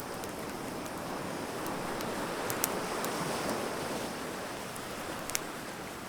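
Wood fire crackling with a few sharp pops, over the rush of surf that swells up in the middle and eases off again.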